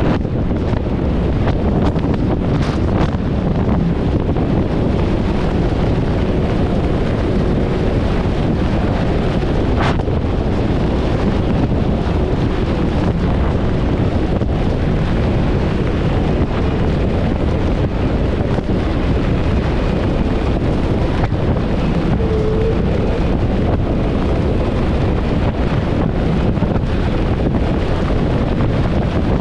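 Wind buffeting the microphone of a fast-moving inflatable boat, over the steady running of its 90-horsepower Evinrude outboard and the hull on the water.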